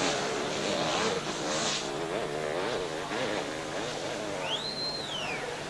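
Sidecar motocross outfits' engines racing, several engines revving up and down over each other. Near the end one high-pitched whine climbs, holds and falls away.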